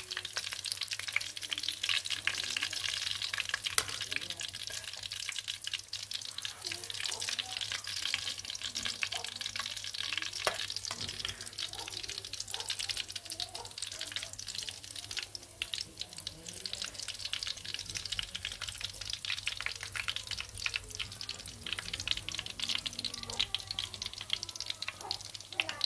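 Minced-fish patties sizzling and crackling in hot oil in a wok, a steady fine spitting, with occasional light scrapes and clicks of a metal fork and spatula against the pan as the patties are turned.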